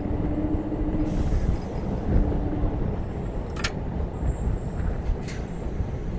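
Electric local train (EMU) running along the track, heard from its open doorway: a steady rumble of the wheels on the rails, with a steady hum twice in the first few seconds, a brief hiss about a second in, and two sharp clicks later on.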